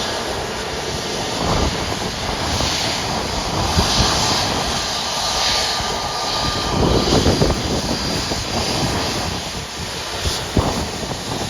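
Airbus A320 jet engines at takeoff power on departure: a loud, steady roar.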